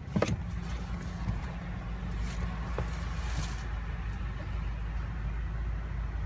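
Idling engine of a Lexus SUV heard from inside the cabin as a steady low rumble, with the driver's door open. A sharp click comes just after the start, and a hiss of outside noise rises and fades in the middle.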